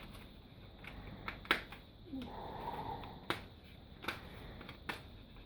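A rubber bicycle inner tube being unwound from a glued ash hurley: a soft rubbing, with three sharp taps or knocks spaced about a second and a half apart.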